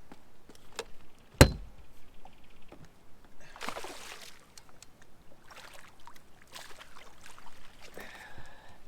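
Knocks and clicks on a fishing boat, with a few short rushes of noise from water or wind. One sharp knock about a second and a half in is the loudest.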